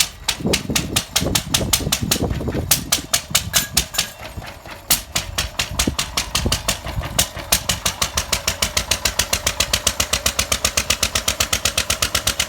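Lister stationary engine running with a chugging exhaust beat, its strokes uneven and spaced out at first, then settling about seven seconds in to a steady rapid beat of about five or six a second.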